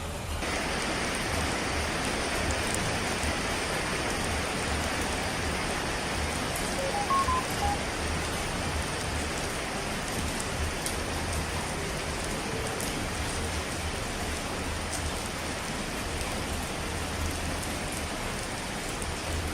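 Steady rush of falling water, an even rain-like noise that fills out in the upper range about half a second in. A few faint short tones come about seven seconds in.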